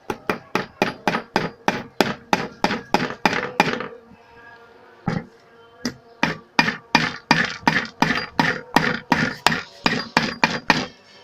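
Hammer blows on a metal pipe used as a drift to drive a new ball bearing into an electric fan motor, about four strikes a second with the pipe ringing. The blows stop for about two seconds midway, with one lone strike, then resume in another long run.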